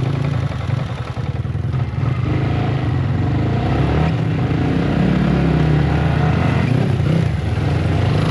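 Yamaha MT-15 motorcycle engine running steadily under way, getting a little louder after about two seconds.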